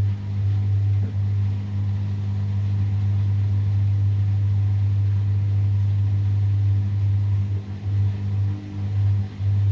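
Samsung front-loading washing machine running its drain cycle: a steady low hum from the drain pump. Near the end the hum breaks into short on-off pulses.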